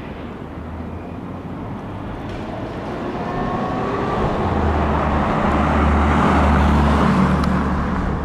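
A motor vehicle running, a low hum with a broad rush that grows steadily louder over several seconds as it draws nearer.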